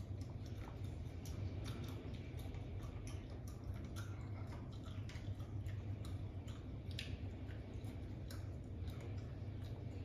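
A person chewing a piece of lime, with many small irregular wet mouth clicks over a steady low hum.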